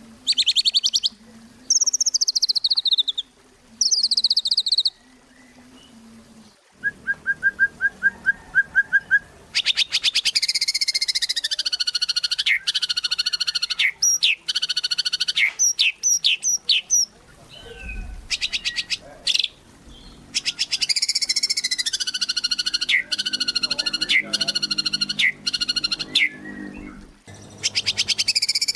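White-rumped shama (murai batu) singing a long, varied song. It opens with falling whistled phrases, then gives a fast run of short repeated notes, then two long chattering rattles with a short break between them.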